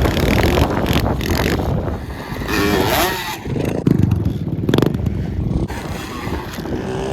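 Small pit bike engine running under way on a dirt trail, its revs rising and falling as the throttle is worked.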